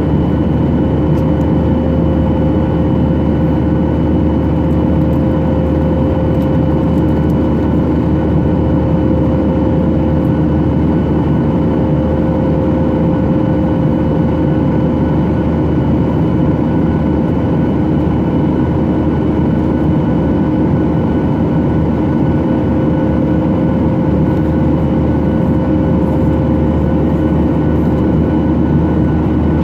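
Boeing 737-800's CFM56 jet engines running steadily, heard from inside the cabin: a constant rushing roar with a few steady whining tones over it.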